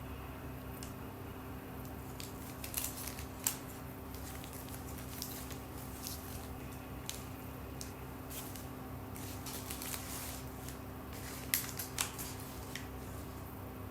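Vacuum cleaner running with a steady low hum, with scattered sharp clicks and crackles as bits are sucked up or the nozzle knocks against surfaces, clustered about three seconds in and again near the end.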